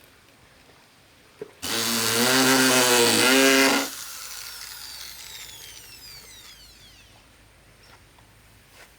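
Electric power tool running for about two seconds, its motor pitch briefly sagging under load, then switched off and spinning down with a falling whine.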